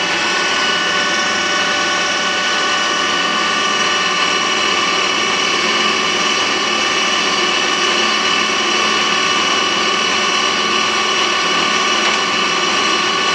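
Harrison toolroom lathe running under power, its geared headstock and feed gearing giving a steady whine of several tones while the carriage travels slowly on power feed.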